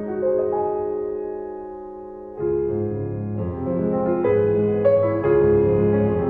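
Background piano music: a held chord, then a fuller passage of notes from about two and a half seconds in.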